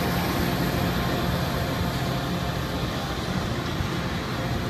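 Caltrain diesel locomotive and bi-level gallery cars moving off along the track, the engine running with a steady low drone that eases off slightly as the train draws away.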